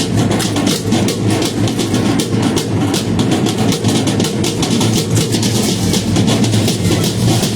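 Percussion of a traditional Mexican danza: a drum beating a fast, steady rhythm under the dense clatter of the dancers' rattles and steps.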